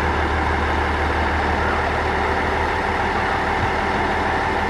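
Diesel railcar engine idling with a steady low drone.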